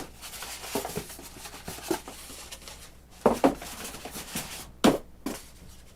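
Foam packing pieces and airframe parts being handled in a cardboard box: scraping and rubbing, with two sharp knocks, the louder about three seconds in and another near five seconds.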